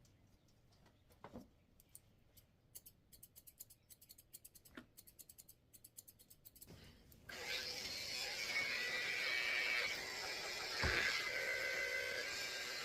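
Curved grooming scissors snipping through a poodle's tail hair: faint, quick clicks, several a second. About seven seconds in, electric dog clippers switch on and run with a steady buzz.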